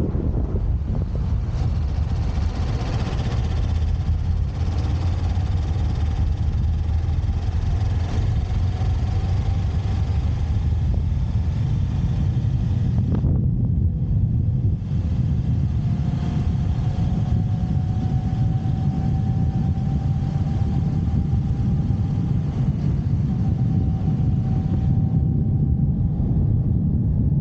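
Motorcycle running on the road while being ridden, with a steady heavy low rumble of engine and road noise. A faint engine tone climbs slightly in pitch in the second half.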